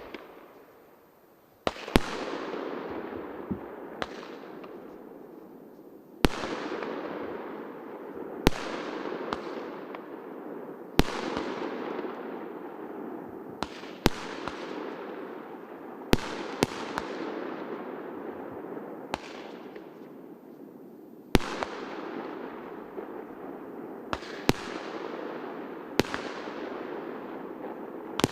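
Multi-shot consumer firework cake firing: a sharp bang about every two seconds, now and then two close together, each followed by a drawn-out hiss that fades.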